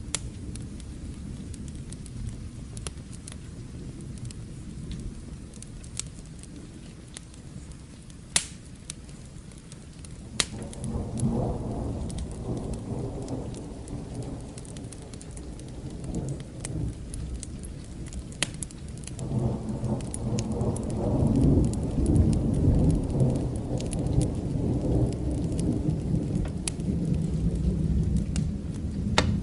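Rain with fire crackling: a steady hiss scattered with sharp pops. Distant thunder rumbles in twice, a shorter roll about a third of the way through and a louder, longer one from about two-thirds in.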